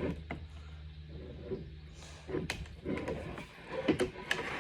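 Scattered clicks and light knocks from an accordion being handled, over a steady low hum; the loudest knock comes about four seconds in.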